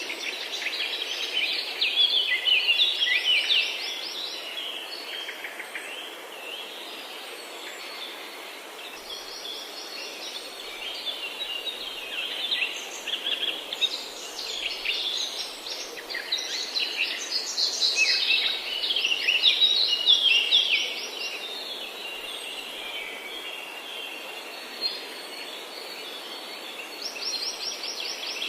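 Several forest birds singing at once, overlapping chirps and fast trills over a steady background hiss. The busiest bursts of song come about two to four seconds in and again around two-thirds of the way through.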